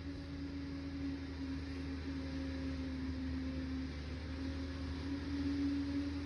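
Liebherr PR 746 crawler dozer's diesel engine running steadily, a low hum with a droning tone on top that grows slightly louder towards the end.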